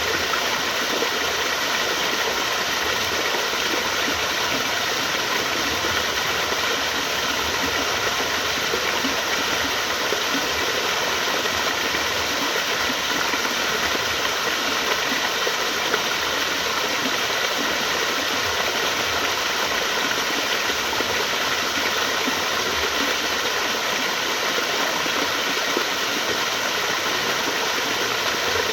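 Flowing water, a steady rushing of a stream or small waterfall with no change in level.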